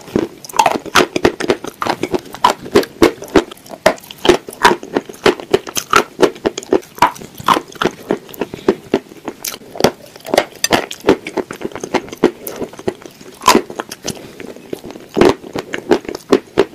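Close-miked chewing and mouth sounds of someone eating creamy clay paste: a fast, irregular run of clicks and smacks.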